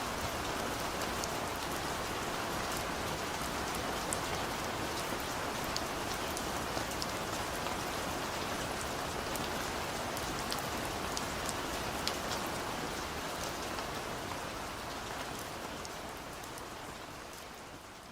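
Heavy rain falling steadily, with scattered sharp drop ticks, fading out over the last few seconds.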